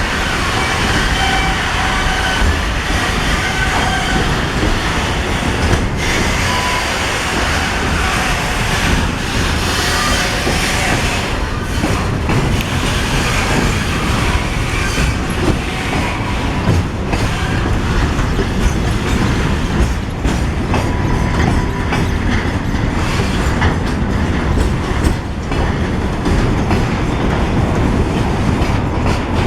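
Container train being shunted by a ChME3 diesel shunting locomotive: a steady rolling rumble with wheels clacking over rail joints. Thin wheel squeals come and go in roughly the first third.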